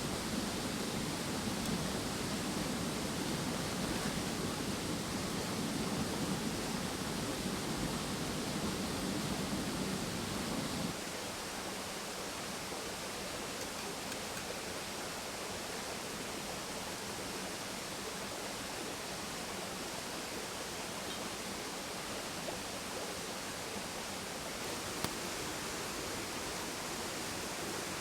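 Mountain stream flowing steadily, a continuous rush of water. The deeper part of the sound drops away about eleven seconds in, and there is a single faint tick near the end.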